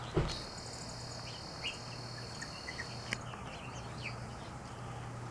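Outdoor backyard ambience: small birds give short, scattered chirps while a steady, high-pitched, insect-like buzz holds for about three seconds and then stops abruptly. A low steady hum runs underneath, and there is a soft bump right at the start.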